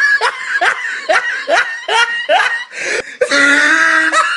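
A person laughing in a quick run of short bursts, each rising in pitch, then a long, loud held cry about three seconds in.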